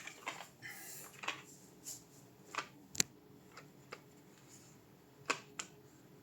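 Irregular small clicks and taps of hardware being handled during a graphics card repaste. The sharpest click comes about three seconds in, and another pair comes a little after five seconds in.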